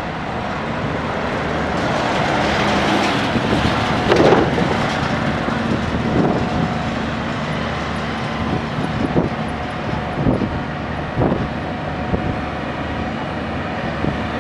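SANY SAG160-5 motor grader's diesel engine running steadily while it levels soil. It swells in level a few seconds in, and about five short clanks sound through the rest.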